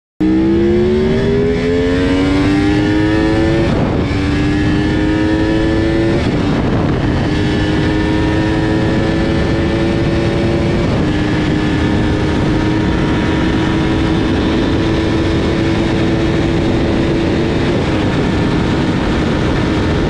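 Yamaha R1 inline-four with a Termignoni exhaust accelerating hard through the gears. The engine note climbs and drops at upshifts about four and six seconds in and again near the middle, then holds high and rises slowly toward top speed, over heavy wind rush.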